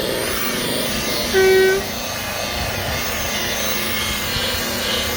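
Rotary polisher running steadily, with a wavering whine as it buffs rubbing compound into a plastic headlight lens. About a second and a half in, a brief loud tone sounds over it for about half a second.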